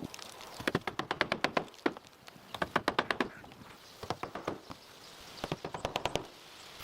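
Quick, light knocks in four short bursts, each a rapid run of several strikes.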